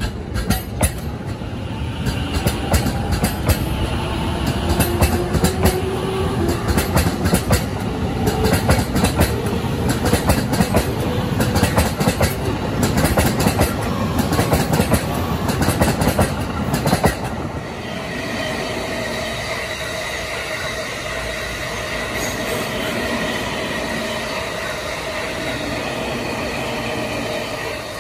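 E231-series commuter electric train accelerating away from the platform, its wheels clicking rapidly over rail joints while the traction motor whine rises in pitch. After about 17 seconds the clicking stops and a steadier train hum with a high whine carries on.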